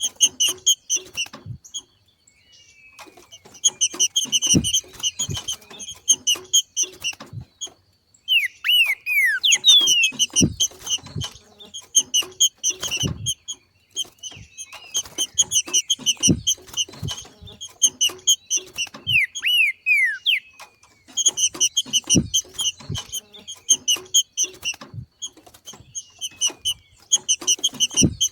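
Green-winged saltator (trinca-ferro) giving its 'macheado' chatter: bursts of rapid repeated notes, each lasting a second or two, with short pauses between and a few falling whistled slurs. Soft low thumps are scattered among the notes.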